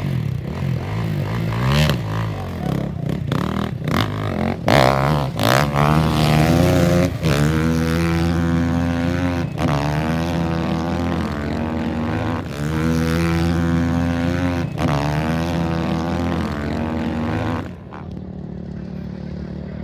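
Off-road race engine accelerating hard through the gears, its pitch climbing and dropping back at each of about four shifts, then dropping away near the end.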